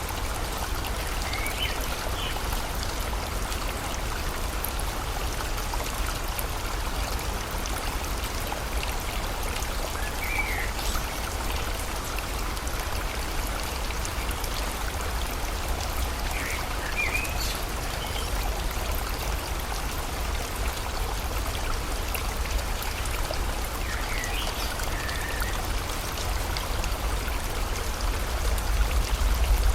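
Steady rushing water of a flowing river mixed with falling rain, with a low rumble underneath. A bird gives short chirps a handful of times, near the start, about ten seconds in, around seventeen seconds and again near twenty-five seconds.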